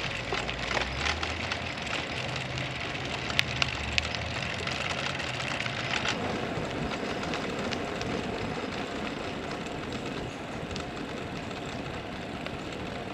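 Brompton folding bicycle rolling along a paved trail: steady tyre and wind noise, with scattered clicks and rattles in the first half.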